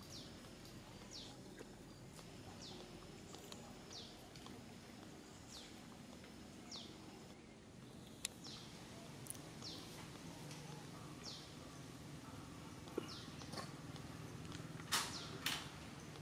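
A bird calling over and over, each call a short high note falling in pitch, about one every second and a half, against faint outdoor background. A few sharp clicks or knocks come through, the loudest two close together near the end.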